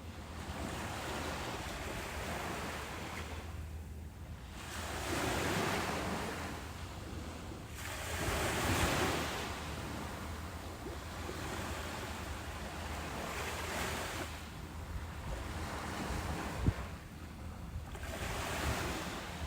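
Ocean surf: waves breaking and washing up a beach in slow rising and falling swells, the loudest about nine seconds in, over a steady low rumble. A single short sharp knock sounds a few seconds before the end.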